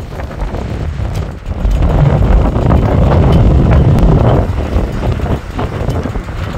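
Wind buffeting the microphone, a low rumbling rush that swells in a strong gust about two seconds in and eases after about four and a half seconds.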